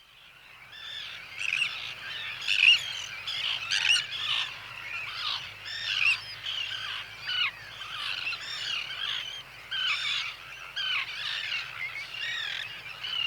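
Common tern breeding colony: many adults and young calling at once, a dense chorus of harsh overlapping calls that fades in over the first second or two.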